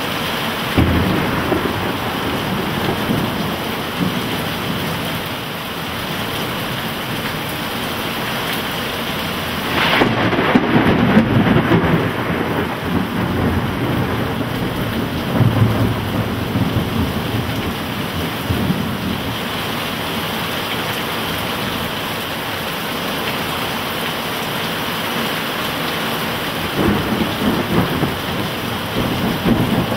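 Heavy rain pouring steadily, with several rolls of thunder. The loudest starts with a sharp crack about a third of the way in and rumbles on for a few seconds, and another rumble builds near the end.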